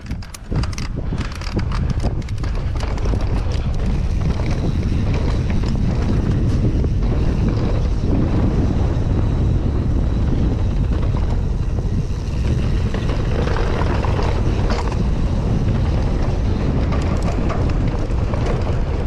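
Wind rushing over a GoPro's microphone as a mountain bike rides down a rocky trail: a steady low rush mixed with tyre and frame noise over rock. There are a few sharp clicks in the first second or two.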